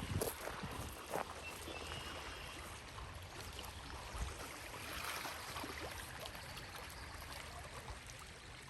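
Faint water washing and trickling over rocks at the shoreline, a steady wash, with a few sharp clicks in the first second or so.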